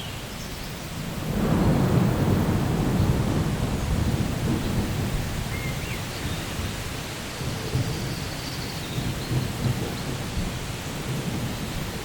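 A thunderstorm: a low rumble of thunder swells about a second in and rolls on for several seconds, slowly fading, over steady rain.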